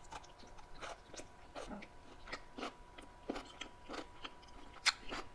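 A person chewing a mouthful of noodles with cabbage: soft, wet mouth clicks and smacks about twice a second, with one sharper smack near the end.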